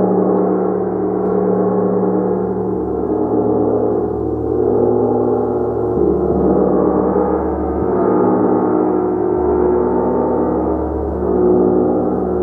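A gong played continuously in a meditative practice: a dense, sustained wash of many overlapping low ringing tones that swells and ebbs, with the deep tones shifting every few seconds as the playing is renewed.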